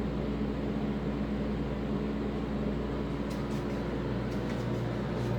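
An air conditioner and heat unit running: a steady mechanical hum with a fan's rush, with the compressor audible. A lower hum grows stronger near the end, and a few faint ticks come from about three seconds in.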